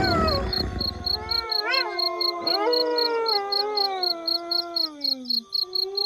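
A pack of wolves howling in chorus: several long howls overlap, each rising briefly and then sliding slowly down in pitch. A fast, even, high chirping pulses behind them, and a low rumble stops about a second and a half in.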